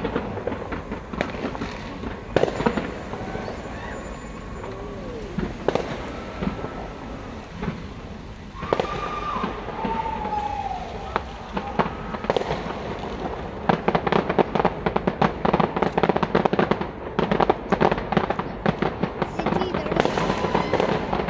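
Fireworks display going off, with scattered bangs at first and then a dense, rapid barrage of bangs and crackles from about two-thirds of the way through.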